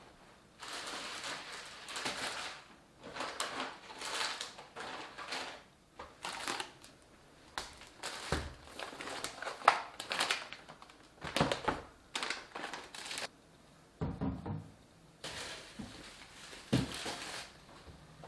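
Food packaging and storage containers being handled: irregular crinkling and rustling, with a few sharp knocks as things are set down.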